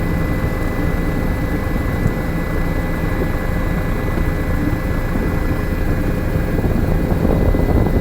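Helicopter in flight: a loud, steady drone of engine and rotor with a constant whine.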